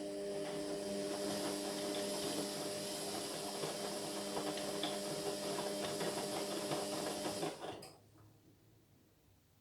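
Indesit MyTime washing machine running on its Whites 40 programme: a steady motor hum over a noisy whirr that cuts off suddenly about seven and a half seconds in.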